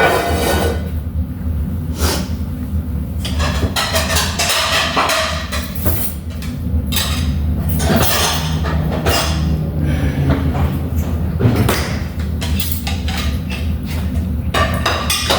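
Kitchen cooking clatter: a utensil knocking and scraping against a pan in many short, irregular strokes, over a steady low hum.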